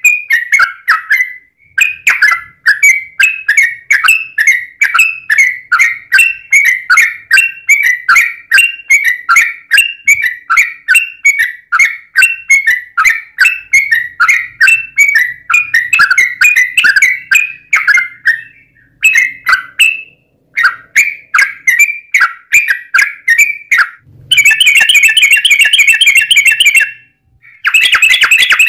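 Yellow-vented bulbul (trucukan) singing in long, rapid runs (ropel panjang): a dense string of chirpy, bubbling notes about three a second, with brief pauses. Near the end it breaks into faster, buzzier trills.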